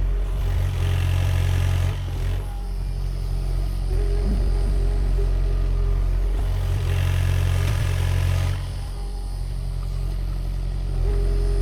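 Sany SY50U mini excavator's diesel engine running steadily, swelling louder twice, about a second in and again near seven seconds, as the hydraulics take load while it digs.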